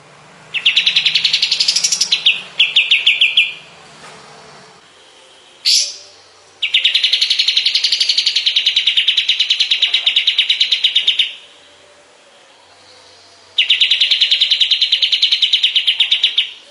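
Kapas tembak birdsong: three bouts of rapid, evenly repeated trilled notes, each lasting about three to five seconds, with a short sharp call between the first two.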